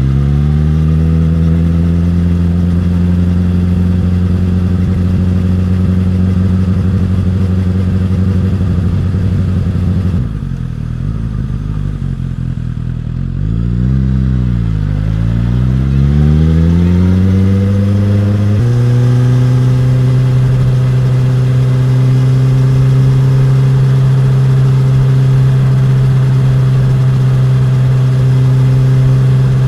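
Suzuki GSX-S1000's inline-four engine and exhaust under way. The engine note climbs and then holds steady. About ten seconds in it falls away as the bike slows, then climbs again. It changes abruptly into a steady low note for the last ten seconds.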